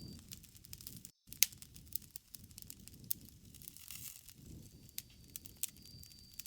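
Wood fire crackling, with irregular sharp pops and snaps over a low steady rumble; the sound cuts out for a moment about a second in.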